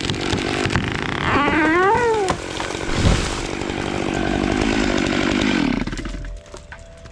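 Gas chainsaw running and cutting, its pitch rising and then falling about two seconds in, with a heavy thump about three seconds in. The saw cuts off about six seconds in.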